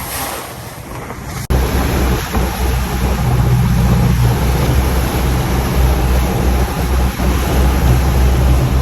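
A motor yacht underway, its engines a loud, steady low drone under a rushing noise of sea and wind. The sound starts suddenly about a second and a half in and holds steady.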